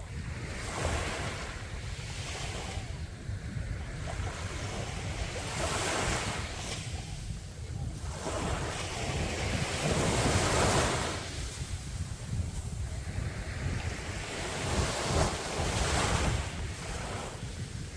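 Sea waves breaking and washing up a sandy beach, several surges swelling and fading, the loudest about ten seconds in, over a constant low wind rumble on the microphone.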